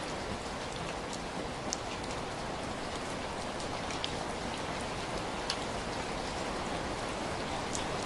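Heavy rain falling steadily, a dense even hiss with scattered sharper drop ticks, a few louder ones standing out.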